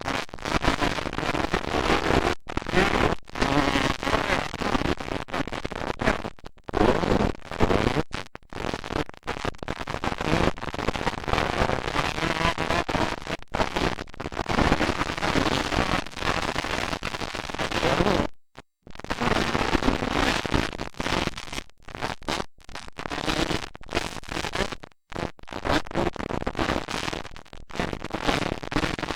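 Motocross dirt bikes racing, their engines a loud, crackling, continuous din. The sound cuts out abruptly several times, most clearly for about half a second some eighteen seconds in.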